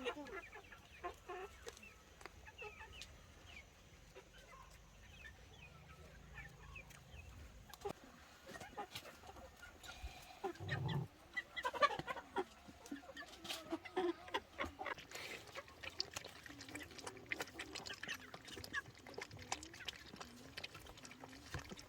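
Chickens clucking, with many short scattered calls.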